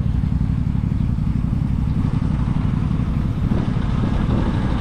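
Sport motorcycle engine idling steadily at a standstill while the rider listens for a strange noise, a possible knock, that he cannot pin down.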